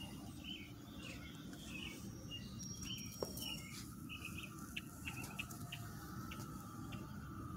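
A bird chirping in a quick series of short calls, a few a second, that gives way about halfway through to a scattering of single ticks, over a low steady rumble.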